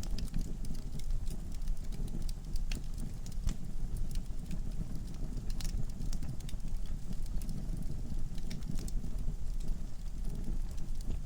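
Wood fire burning in a fireplace: a low steady rush of flames with irregular sharp crackles and pops from the burning logs.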